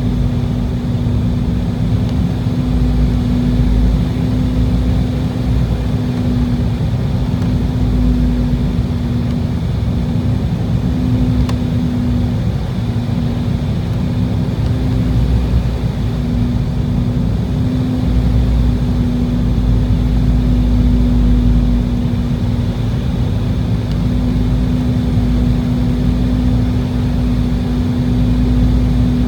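Cabin noise of an Embraer E190 airliner in flight on approach: a steady rumble of airflow and its GE CF34 turbofan engines, with a steady low hum.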